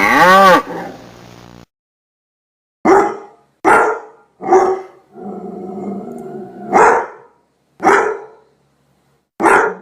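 The tail of a cow's moo, then a dog barking: three barks, a low growl lasting about a second and a half, then three more barks.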